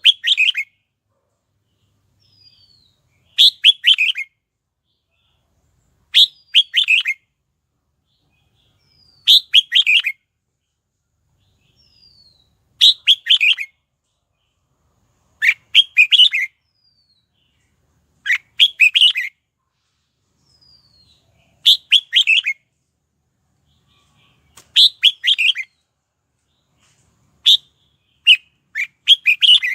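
Red-whiskered bulbul singing: short, loud bursts of warbled notes repeated about every three seconds, with faint falling whistles between them. The phrases come closer together near the end.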